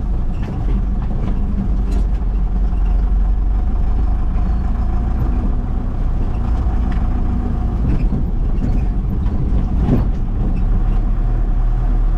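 Old vehicle's engine running steadily while driving on a rough dirt road, heard from inside the cabin as a low rumble, with a few short knocks and rattles from bumps in the road.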